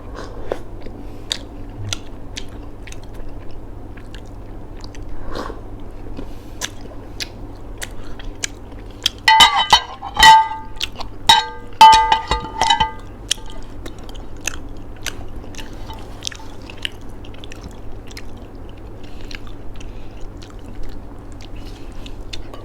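Crunchy snack being chewed close to the microphone, a run of small crisp crunches. About nine to thirteen seconds in, a louder high-pitched sound of several short notes cuts in briefly.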